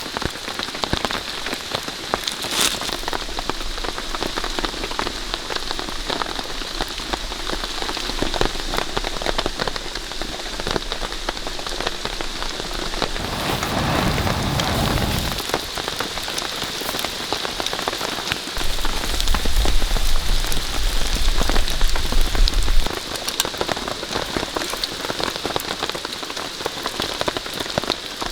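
Steady rain falling, a dense patter of countless small drops. A low rumble joins it about halfway through, and again for a few seconds later on.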